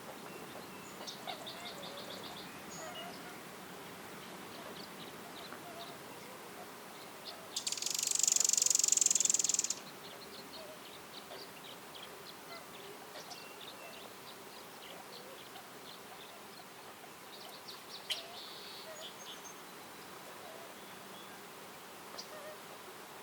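An insect's loud, rapidly pulsing buzz lasting about two seconds, a third of the way in. It sits over soft forest ambience with faint short, fast chirping trills now and then.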